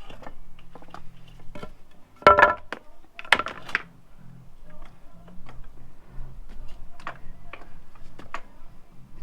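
Scattered metallic clicks and clinks of tools and motorcycle parts being handled, with two louder clanks that ring briefly about two and three seconds in, as the rear wheel is shifted to come out.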